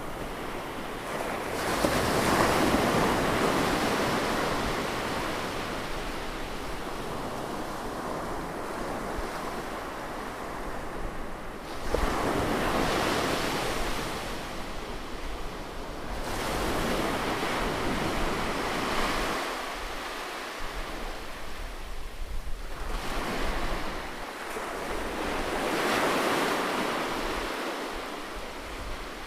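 Ocean waves breaking and washing up the shore, about four surges in turn, each swelling to a loud rush and fading away over several seconds.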